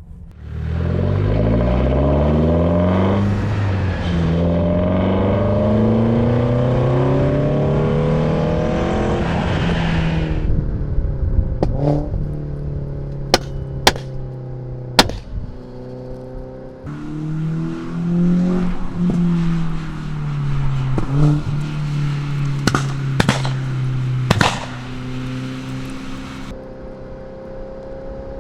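Renault Sandero RS's 2.0-litre four-cylinder engine, fitted with a cold air intake, accelerating hard on a track. Its pitch climbs steeply, drops at an upshift about three seconds in, then climbs again for several seconds. It then holds a steadier note broken by a few sharp cracks, pulls up and down again, and eases off near the end.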